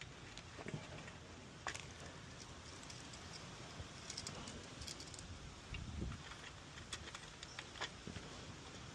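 Scattered light clicks and taps of small plastic pool-cleaner parts being handled and fitted by hand, about a dozen irregular ticks.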